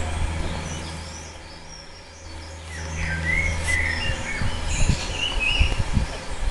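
Garden birds chirping, with many short high calls, over a steady low rumble with a few low thumps.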